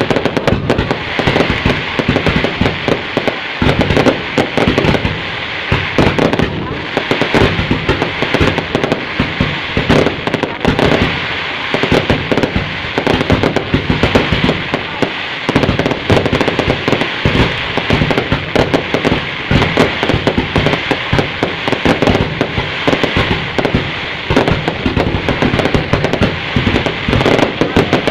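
Fireworks going off in a continuous crackle, many sharp pops and bangs in quick succession with no pause.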